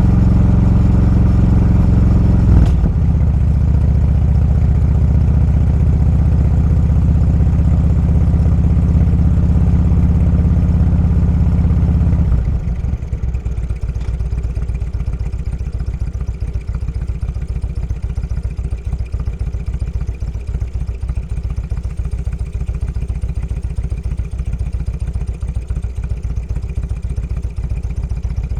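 Motorcycle engine running at a steady cruise, with a brief dip in the note about two and a half seconds in. About twelve seconds in it falls quieter to a lower, pulsing beat and stays there.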